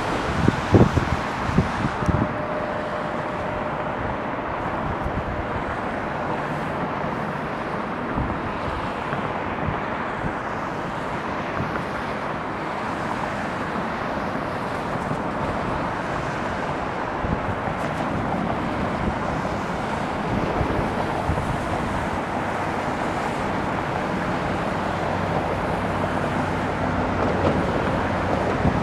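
Airbus A321 jet engines on landing approach, a steady rushing hiss that grows slowly louder near the end. Wind buffets the microphone at the start.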